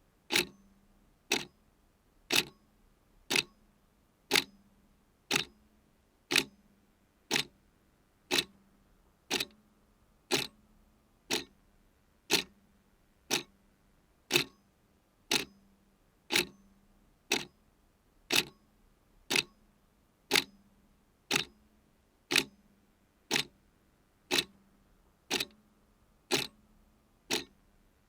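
Clock ticking steadily at about one sharp tick a second.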